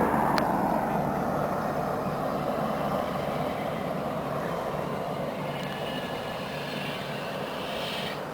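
A helicopter flying by and moving away, its rotor and turbine noise fading steadily. A faint high whine stops abruptly near the end.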